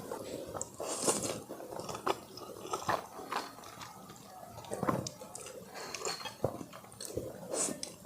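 A person chewing and biting food close to the microphone, with irregular crisp bites and wet mouth sounds.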